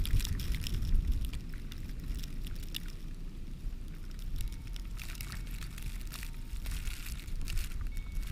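Storm wind buffeting the microphone in a blizzard, an uneven low rumble, with scattered light crackling throughout.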